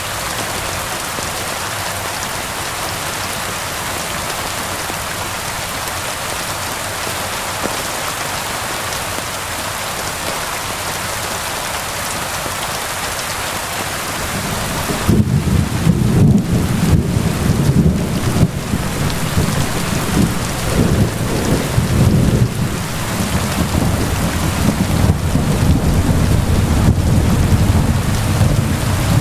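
Steady rain falling, joined about halfway through by a low, rolling rumble of thunder that swells and fades.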